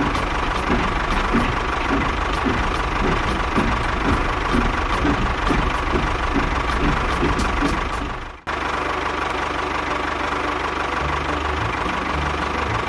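Small electric motor of a DIY model construction machine running steadily, with a regular ticking about two to three times a second. The sound breaks off for an instant about eight seconds in and carries straight on.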